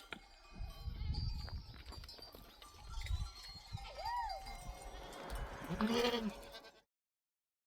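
Sheep in a flock bleating: a higher call about four seconds in and a lower one about two seconds later, over low rumble and small clinks. The sound cuts off abruptly to silence near the end.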